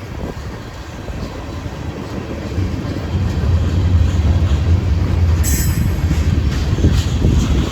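Slow-moving freight train rolling past, its low rumble building and staying heavy from about two and a half seconds in. There is a brief high wheel squeal about five and a half seconds in, and a few clicks near the end.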